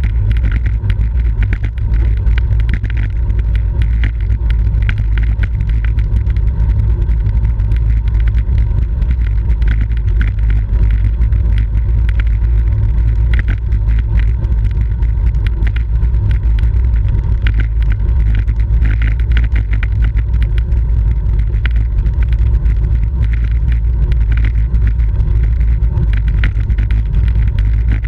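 Steady, loud wind rumble on the microphone of a camera riding along on a racing bicycle, with light irregular ticks and rattles over it.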